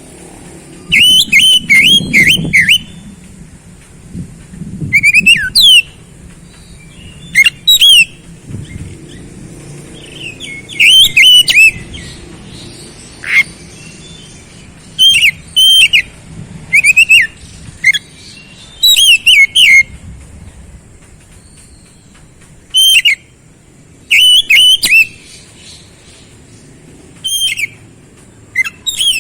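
Oriental magpie-robin (kacer) singing loud phrases of rapid whistled and chattering notes, about a dozen phrases each a second or two long with short pauses between.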